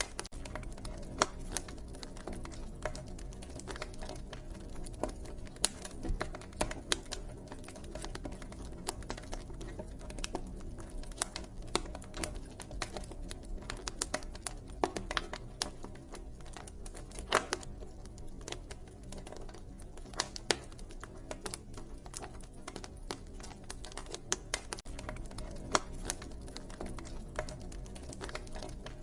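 Wood fire crackling: irregular sharp pops and snaps, a few louder ones standing out, over a low steady background hush.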